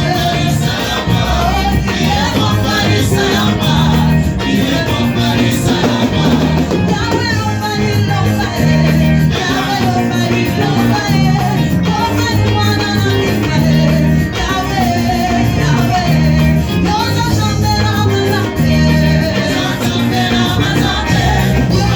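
Church band music with singing over a repeating bass line.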